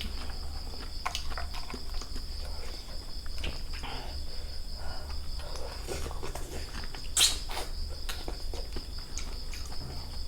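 Crickets chirring in one steady high drone, with scattered small clicks and crunches of chewing, and a short louder noise about seven seconds in.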